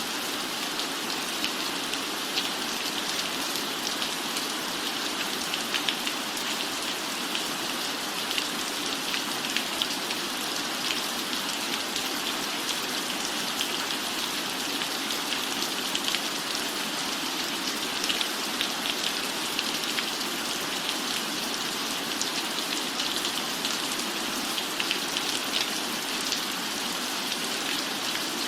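Steady rain falling on a roof, an even hiss dotted with frequent small ticks of individual drops.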